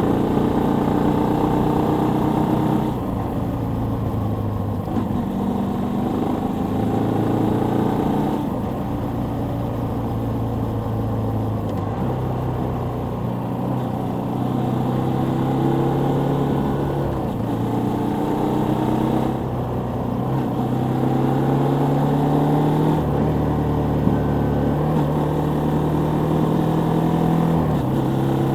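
Suzuki Volty 250 (TU250) air-cooled single-cylinder engine running under way. Its pitch climbs steadily and then drops or shifts several times, as with accelerating through the gears and changing gear.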